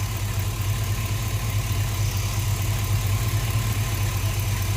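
A 2005 Chevrolet Tahoe's 5.3-litre V8 runs steadily at idle with a slight misfire.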